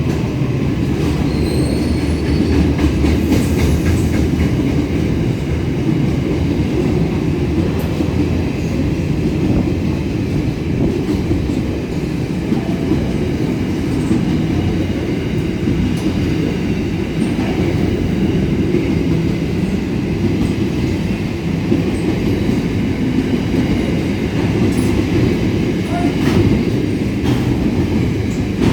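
Grain train rolling past at close range: a steady, loud rumble of wagons with wheels clicking over the rail joints, and a few brief high wheel squeals in the first few seconds.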